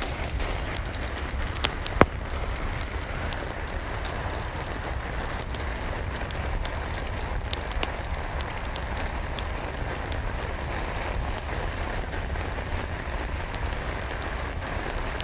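Steady rain with scattered sharp crackles and pops from a wood fire in a fireplace; one louder pop about two seconds in.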